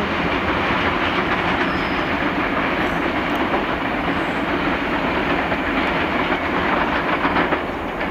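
Freight train of flat wagons rolling away over station pointwork: a steady rumble of wagon wheels on the rails, with a run of quick clicks over the crossings about two-thirds of the way through.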